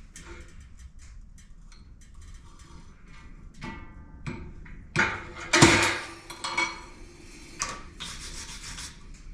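Small metal spur parts being handled and worked: scraping and light clicks, a brief metallic ring, and a few sharper knocks, the loudest about five to six seconds in.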